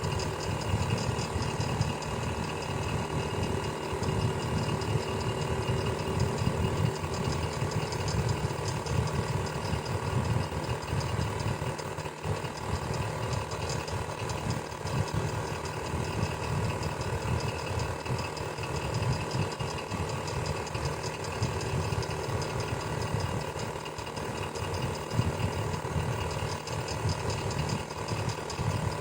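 Electric fan running steadily: a constant motor hum with a fast, even mechanical rattle.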